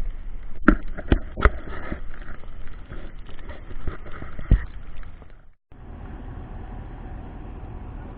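Plow truck running through snow with several sharp knocks and clunks in the first half. About five and a half seconds in, the sound cuts out for a moment, and a steadier, quieter hum follows.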